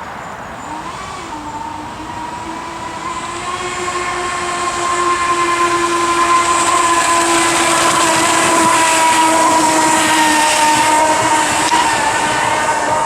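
Jet-surfboard booster jets on a kayak running under power with a steady whine, growing louder from about two seconds in and holding loud from about five seconds on, over a high hiss.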